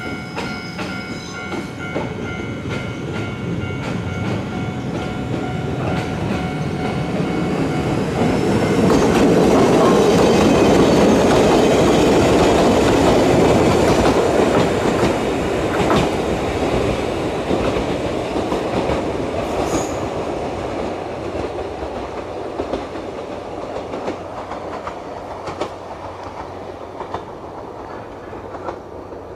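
Ichibata Electric Railway electric train passing by, its wheels clattering over the rail joints. It grows louder to a peak about ten seconds in, then fades as it moves away.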